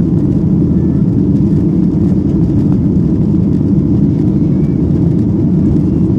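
Boeing 737-800's CFM56-7B jet engines running at take-off thrust: a steady, loud, low noise that holds even throughout.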